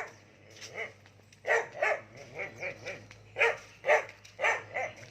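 A dog barking repeatedly, about eight short barks in a loose series. It is an unhappy dog barking at a passer-by.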